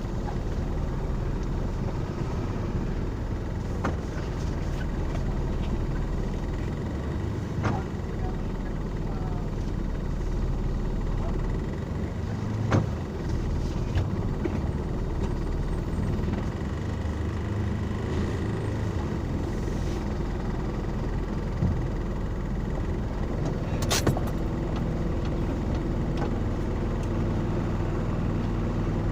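Motor vehicle running steadily, its engine hum and road noise heard from inside, with a few brief clicks or knocks.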